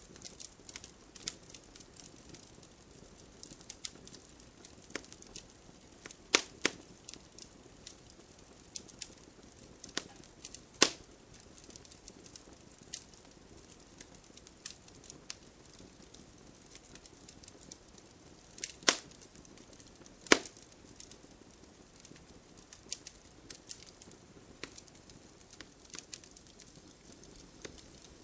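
Wood bonfire crackling, with irregular sharp pops and snaps, a few much louder ones around a quarter of the way in and again about two-thirds through. Under it runs a steady soft hiss of rain.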